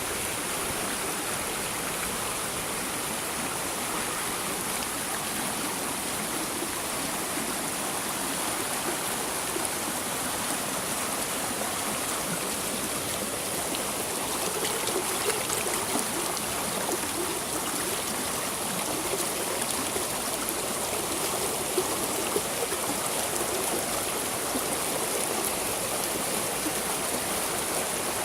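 Waterfall water rushing and splashing steadily.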